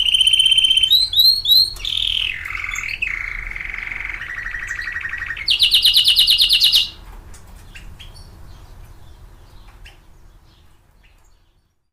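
Domestic canary singing: a run of rapid trills, each phrase a fast repeated note at a new pitch, some sliding down and back up. The song stops about seven seconds in, leaving only faint scattered ticks that fade out.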